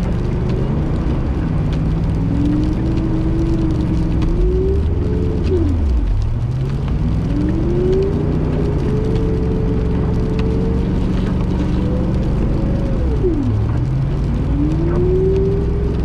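Car engine revving hard while its tires spin and the car struggles to climb a slippery hill. The engine note climbs and holds for several seconds, drops sharply about five seconds in and again near thirteen seconds, then climbs once more.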